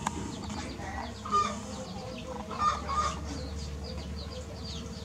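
Birds calling in the background: two louder calls, about a second and a half and about three seconds in, then a run of quick, high, falling chirps.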